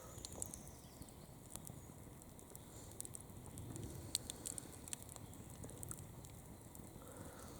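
Campfire burning, with scattered sharp crackles and pops over a low steady rumble of the flames.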